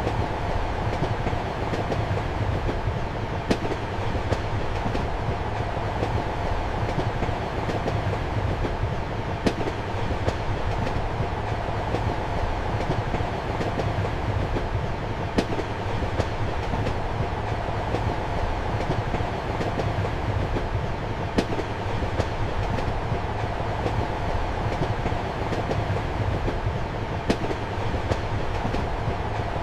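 Passenger train running steadily, heard from inside a compartment: an even rumble and hum, with sharp clicks of the wheels over rail joints, the loudest about every six seconds.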